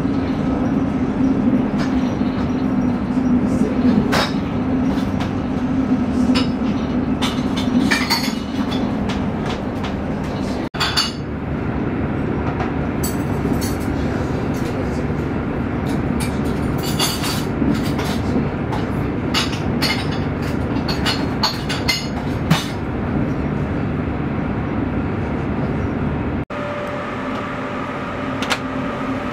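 Cabin noise of a Frecciarossa high-speed train running at speed: a steady rumble with frequent light clinks and rattles. Near the end it changes to a quieter, steady hum with a faint whine as the train nears its stop.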